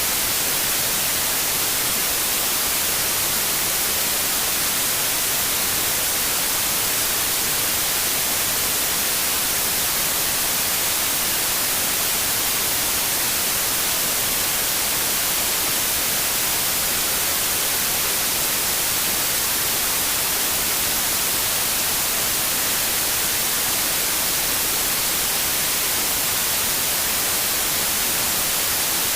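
Steady, unchanging white noise: an even hiss across all pitches, brightest in the highs, with no rhythm or breaks.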